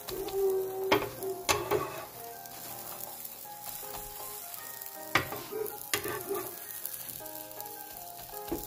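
A jianbing crepe sizzling on a hot griddle pan while a metal spatula folds it, with several sharp clacks and scrapes as the spatula works against the pan and the crisp fried wonton wrapper inside.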